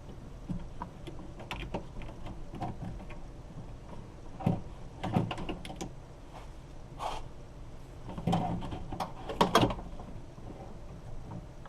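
Scattered clicks and knocks of hand work on a car door's lock mechanism and latch parts, with a few louder knocks about halfway through and again near the end.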